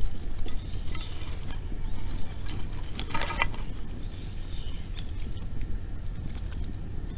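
Wood campfire crackling and popping in scattered short snaps, with a louder burst about three seconds in, over a steady low rumble of wind on the microphone.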